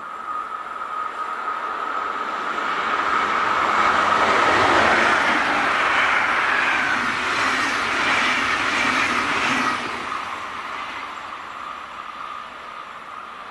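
SBB passenger train of coaches running past on the main line: the rush and rattle of wheels on rail swells over about four seconds, stays loud, then drops off sharply about ten seconds in as the last coach clears, and fades away.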